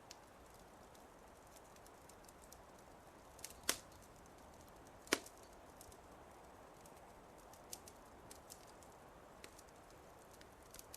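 Wood fire crackling softly: scattered small snaps over a faint hiss, with two louder pops about four and five seconds in.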